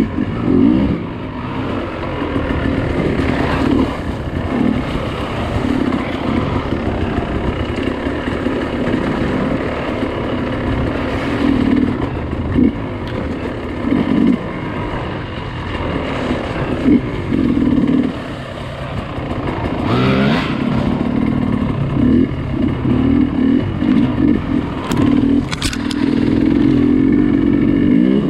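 Dirt bike engine being ridden off-road, the throttle opened and closed again and again so the revs surge and drop. A few sharp clacks come near the end.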